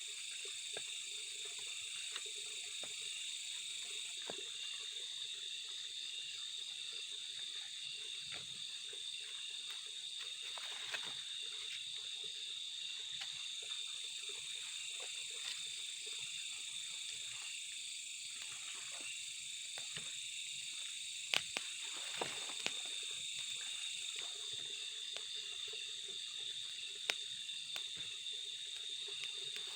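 Steady chorus of insects, such as crickets, with a lower trilling of frogs. A few sharp clicks stand out about two-thirds of the way in and again near the end.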